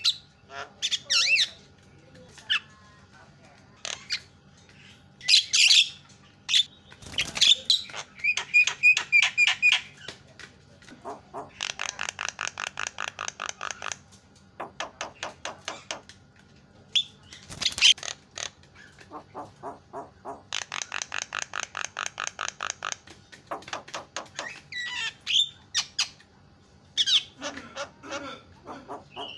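Javan myna calling loudly: a jumble of harsh squawks and sharp whistles, broken twice by long runs of rapid chattering notes, about eight a second.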